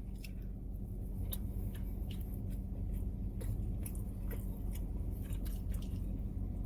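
Close-miked chewing of a mouthful of pork belly and rice, with small irregular mouth clicks, over a steady low hum.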